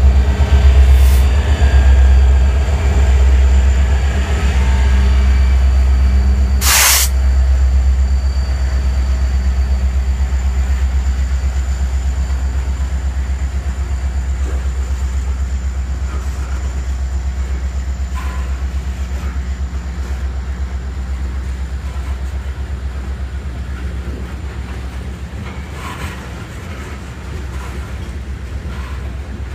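Loaded coal train passing close by. The engine of the trailing EMD SD9043MAC diesel locomotive is heard in the first few seconds, then a long run of loaded coal hopper cars rolls by with a steady low rumble that slowly fades. There is one short, sharp noise about seven seconds in.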